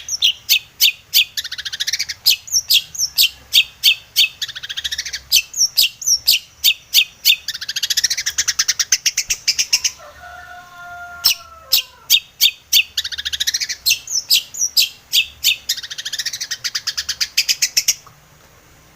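Long-tailed shrike (cendet) singing a fast, chattering run of sharp high notes mixed with harsh buzzy phrases. About halfway through it breaks off briefly for a few lower sliding notes, then resumes, and it stops about a second before the end.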